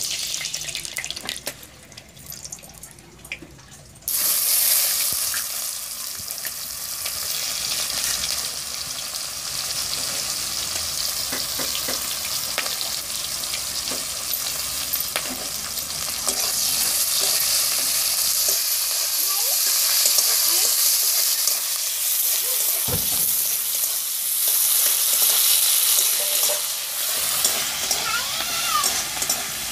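Sliced onion, bay leaves and whole spices sizzling loudly in hot oil in a steel kadai, stirred with a metal spatula. The sizzle starts suddenly about four seconds in.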